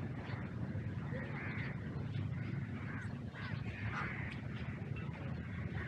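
Birds calling, short arched calls repeated every second or so, over a steady low background rumble.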